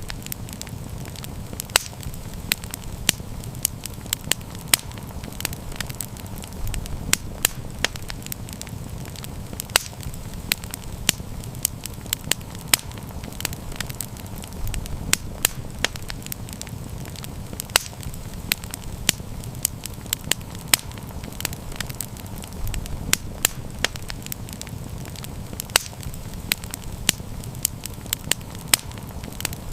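Wood campfire burning and crackling: irregular sharp pops and snaps, several a second, over a steady low rumble of flame.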